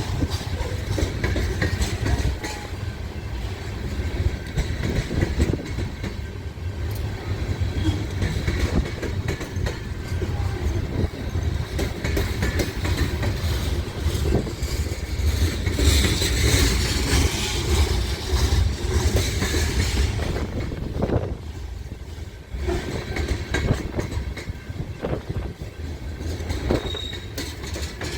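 A long, heavy freight train of grain cars rolling slowly past, its wheels clacking over rail joints above a steady low rumble. The hiss of the wheels on the rails swells briefly about two-thirds of the way through.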